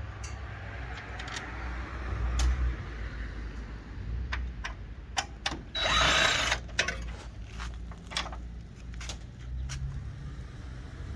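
Power drill with a Phillips bit running in a short burst about six seconds in, driving the screws out of a Jeep Comanche's headlight mount. Sharp clicks and knocks from the bit, screws and parts being handled fall around it.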